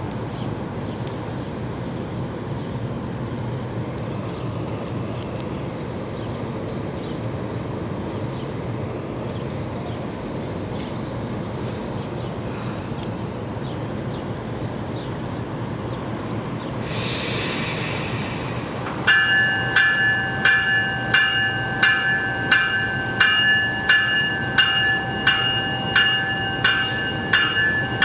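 NJ Transit MultiLevel commuter train running with a steady low rumble, then a short sharp hiss of air about 17 seconds in. From about 19 seconds in a bell rings about once a second, each stroke a ringing, several-toned clang, and this becomes the loudest sound.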